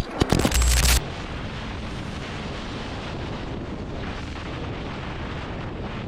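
Several loud bangs in the first second, then an abrupt cut to a steady rushing noise like wind across a microphone.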